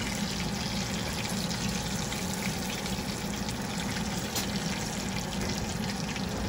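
Breaded chicken cutlets sizzling steadily in a skillet of hot oil.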